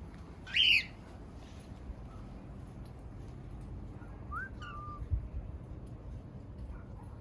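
Cockatiel calling: one loud, short rising chirp, then a softer whistled note that rises and falls a few seconds later. A brief low knock follows the whistle.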